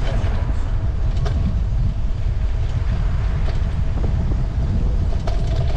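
Steady low rumble of wind and road noise on the microphone while cycling, with a few faint ticks.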